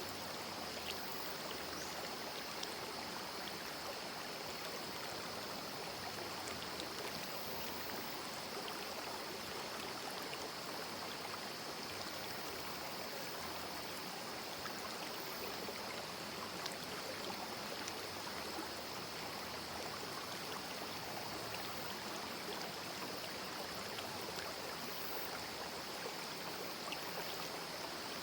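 Small rocky river stream babbling, a steady, even rush of water.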